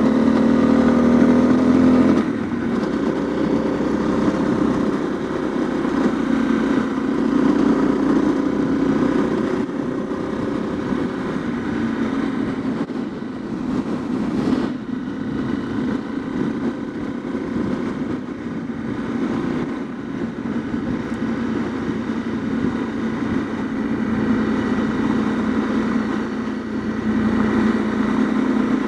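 Honda CRF250L dual-sport motorcycle's single-cylinder engine running under way, louder for the first couple of seconds and then easing to a steadier, lower note.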